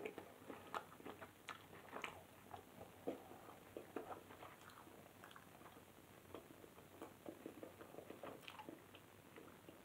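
A person chewing a mouthful of steak with the mouth closed: faint, wet mouth clicks and smacks, busiest in the first few seconds and then thinning out.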